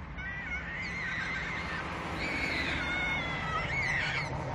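Animal calls: several high, drawn-out cries that waver and overlap, over a steady low background noise.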